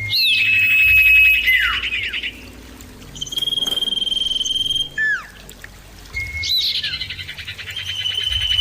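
Common iora (cipoh) singing: three long, steady high whistles, each held for a second or two and ending in a falling slur, with a short note in between.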